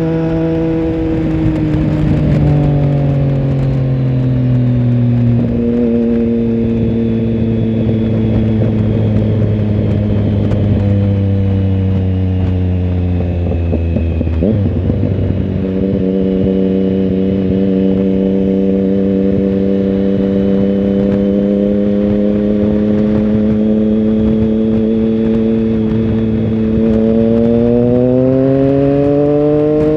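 Triumph Tiger Sport 1050's inline three-cylinder engine heard onboard, running continuously. The engine note falls as the bike slows and shifts suddenly about 5 and 14 seconds in. It then holds steady and rises near the end as the bike accelerates.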